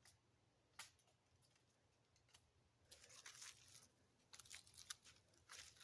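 Near silence with faint, scattered clicks and crackles, one a little under a second in and clusters in the second half.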